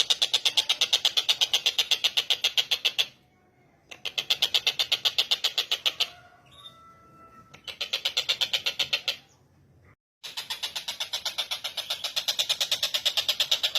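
Tengkek buto (collared kingfisher) calling: rapid, harsh, evenly repeated notes, about eight a second, in four runs of two to three seconds each, broken by short pauses.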